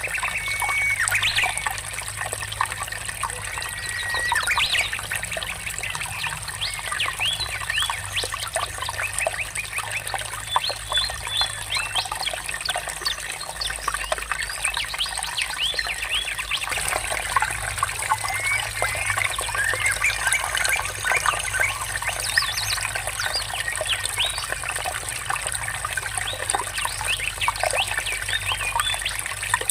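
Water trickling and flowing steadily, with many birds chirping and singing over it in quick, short calls, and a few held whistled notes near the start.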